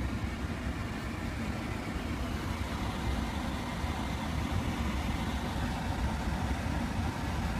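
Steady low engine rumble, like a car idling, with no changes in pitch.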